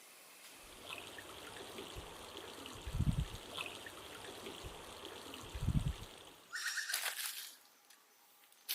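Water trickling, with two dull low thumps partway through. Near the end an animal calls twice in a short, rapid pulsed trill.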